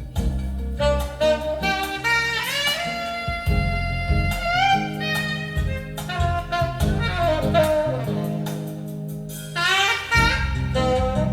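Live jazz band playing from a cassette tape recording: a horn soloing in quick rising runs over bass and drums.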